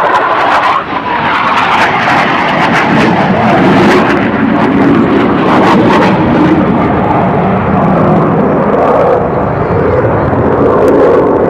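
Loud, continuous roar of US Navy Blue Angels F/A-18 Hornet jets flying past.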